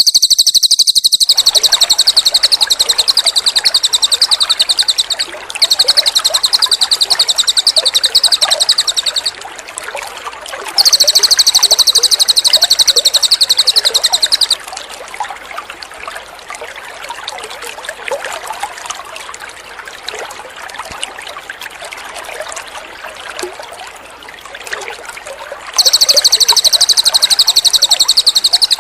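Cililin bird singing long, high, very rapid trills in stretches of several seconds, with breaks around 9 to 11 seconds in and from about 14 to 26 seconds in. Water trickles steadily underneath and is heard alone in the gaps.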